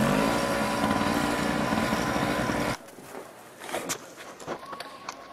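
Petrol snow blower running steadily with a constant engine hum, cutting off suddenly a little under three seconds in; faint scattered clicks follow.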